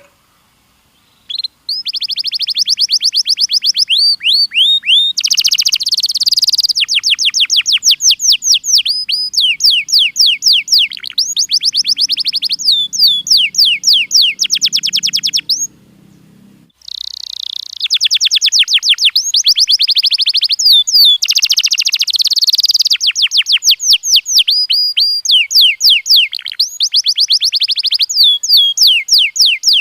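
Domestic canary singing a long, loud song of rapid trills, quick runs of repeated notes that change tempo and pitch from phrase to phrase. It pauses briefly near the middle, then goes on.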